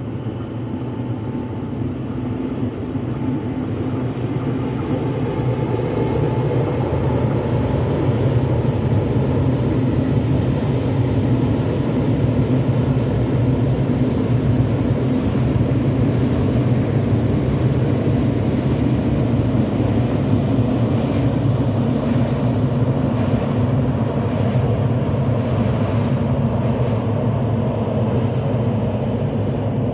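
KTX-Sancheon high-speed electric train running past, a steady rumble of wheels on rail that builds over the first several seconds, holds, and eases slightly near the end.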